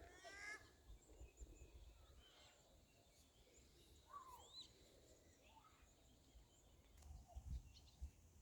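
Faint bird calls against quiet outdoor background: a short series of rising chirps about half a second in and a couple more whistled calls around four seconds in. A few low dull thumps come near the end.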